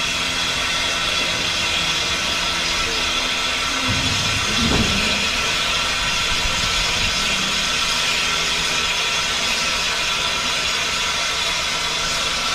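Steam locomotive standing with a steady hiss of steam and faint low machinery hum, with a brief low rumble about four seconds in.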